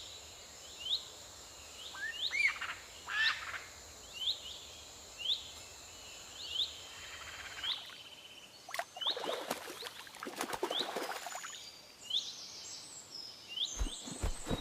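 Birds calling outdoors: a short rising chirp repeats about once a second, over a steady high-pitched hum through the first half. A burst of rustling noise comes in the middle, and a few thumps come near the end.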